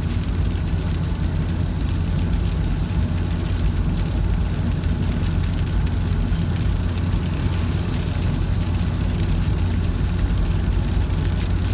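Steady low cabin rumble of a Boeing 737-700 taxiing to the stand after landing, its CFM56 engines at idle.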